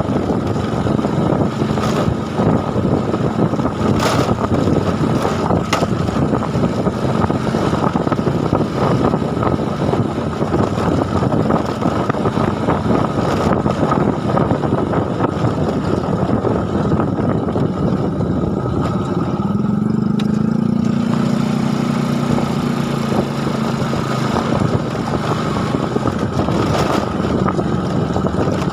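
A vehicle engine running steadily, with a rush of wind noise over it; the engine note rises briefly about twenty seconds in.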